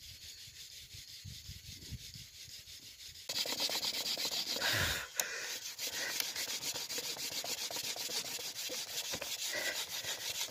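Bamboo fire saw: a strip of bamboo rubbed rapidly back and forth across split bamboo in quick, even rasping strokes. The strokes get suddenly louder about a third of the way in. This is a friction fire attempt heating the bamboo to raise smoke and an ember.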